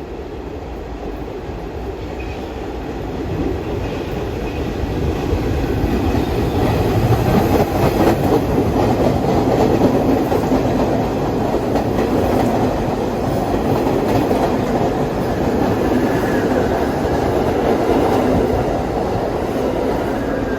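New York City subway train on the BMT Brighton Line, its wheels clattering over the rails. It grows louder over the first few seconds and stays loud, easing slightly near the end.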